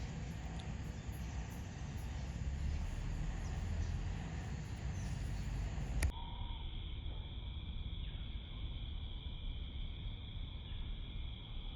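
Outdoor ambience: a low wind-like rumble with faint high chirping. About six seconds in it cuts abruptly, with a click, to a steady high-pitched insect buzz.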